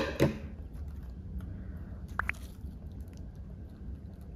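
Close-miked eating of battered fried giant squid: a sharp bite right at the start, then chewing.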